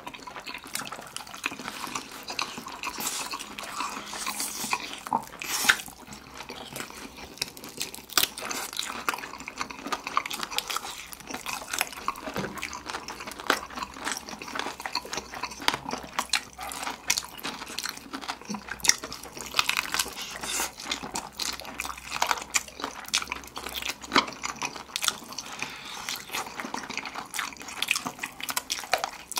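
Wet chewing and lip-smacking of people eating sticky sauced fried chicken drumsticks and black-bean sauce noodles: a steady, irregular stream of small moist clicks and smacks.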